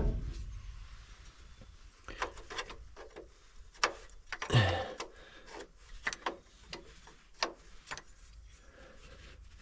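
Wrench clicking and knocking against metal as a stubborn bolt is worked loose, in scattered irregular clicks with a heavier knock about four and a half seconds in.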